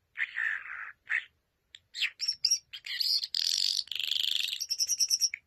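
Birds calling: short chirps and squawky calls separated by brief pauses, becoming denser after about two seconds and ending in a fast run of high chirps.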